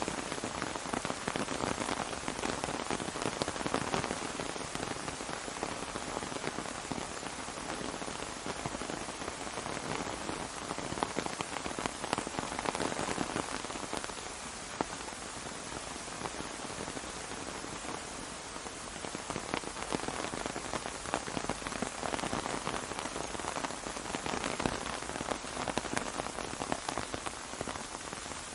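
Steady rain falling on an umbrella: a dense spray of drop hits that eases a little midway and then picks up again.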